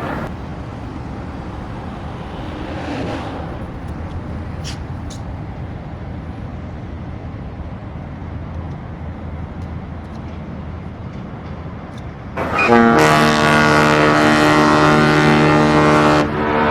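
Steady low rumble, then about twelve seconds in a ship's horn sounds a long, loud, deep blast. The blast breaks off briefly near the end and sounds again.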